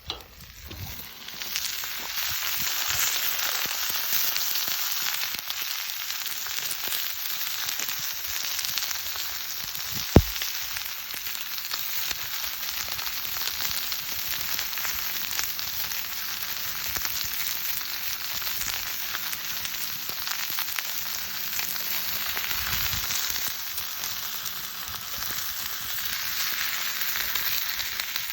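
Chicken sizzling steadily in a Turk forged-iron frying pan, with one sharp click about ten seconds in.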